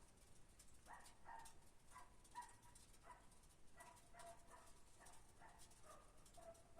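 Faint, repeated short yelps and whines from a dog, about two a second, ending in a longer whine near the end; no engine is running.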